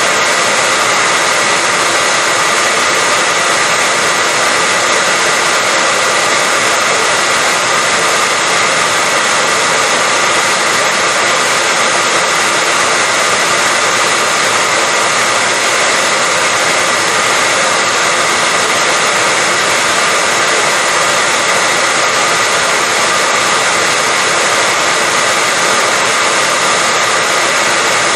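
Hair dryer running continuously at a steady speed: an even, unbroken rushing whoosh of blown air with a faint steady motor whine, played as a sleep sound for babies.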